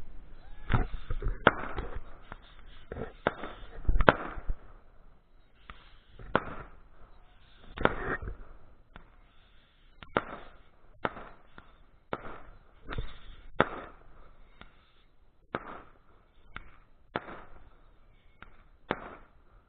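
Fireworks going off: a string of irregular bangs and pops, roughly one a second, some followed by a short crackle. The loudest bangs come about four and eight seconds in.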